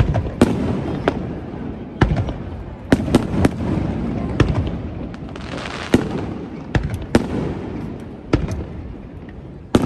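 Aerial fireworks shells bursting in a rapid series of loud booms, about a dozen in ten seconds. A hissing crackle rises around the middle.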